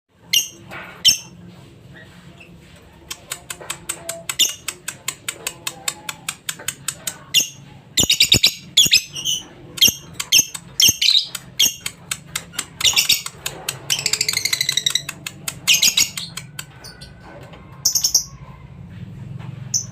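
Lovebird chirping and chattering: rapid runs of sharp, high chirps with a longer rippling trill about two-thirds of the way through, over a faint low hum.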